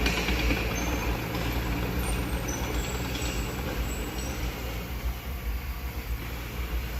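Diesel engine of a Mitsubishi BD2F bulldozer running steadily with a low hum, easing a little in the last couple of seconds.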